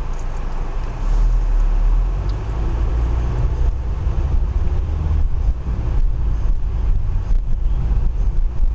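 Car driving, its engine and road noise making a steady low rumble heard from inside the cabin, a little louder from about a second in.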